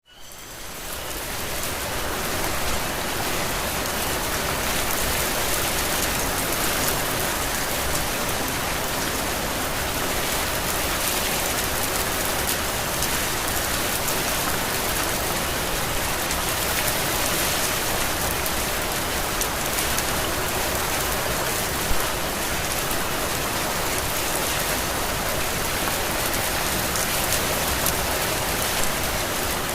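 Heavy, steady rain pouring down in a dense, even hiss. It fades in over the first couple of seconds, and one louder drop lands a little past the middle.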